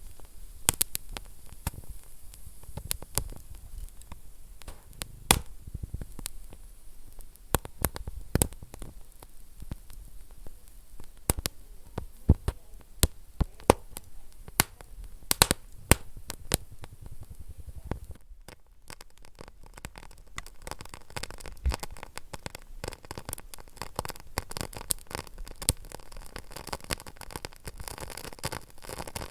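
Wood fire burning in a fireplace, crackling with irregular sharp pops over a low steady hiss. About two-thirds of the way through it briefly dips, then goes on as a denser, fainter crackle.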